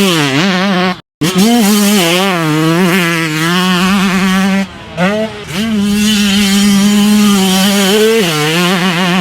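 2018 Yamaha YZ125's 125cc two-stroke single-cylinder engine revving hard while being ridden, its pitch rising and falling with the throttle. The sound cuts out abruptly for a moment about a second in, and dips briefly just past the middle.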